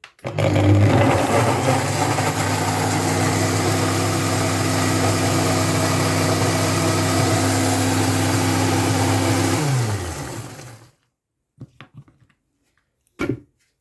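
Electric blender running steadily, puréeing fresh strawberries, then spinning down and stopping about ten seconds in after being switched off. A few short knocks follow near the end.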